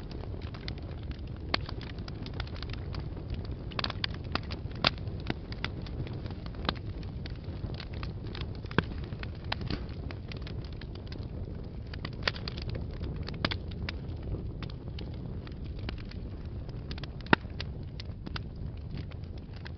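Wood fire burning in a fireplace: a steady low rumble of the flames with irregular crackles and pops, the loudest pop about three-quarters of the way through.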